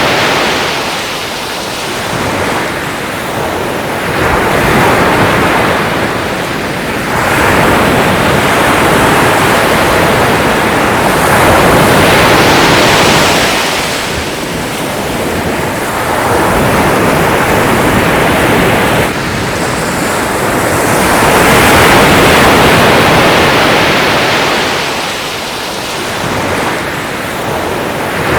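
Ocean waves breaking and washing on a shore, a loud rushing surf that swells and ebbs every few seconds.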